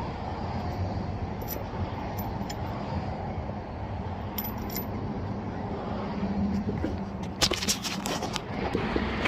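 Lug nuts being threaded onto the wheel studs by hand, with light metallic clinks now and then and a cluster of sharper clicks about seven to eight seconds in, over a steady low rumble.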